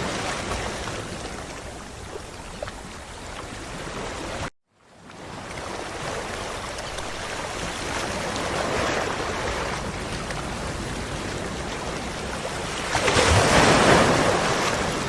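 Ocean waves washing onto a beach, the surf swelling and ebbing. The sound cuts out completely for a moment about four and a half seconds in, then fades back. A louder wave breaks near the end.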